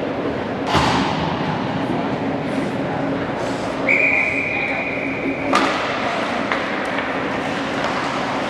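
Gym noise of a basketball game with chatter throughout. There is a sharp thud about a second in, then a referee's whistle blown in one steady blast of about a second and a half near the middle, cut off by another sharp thud.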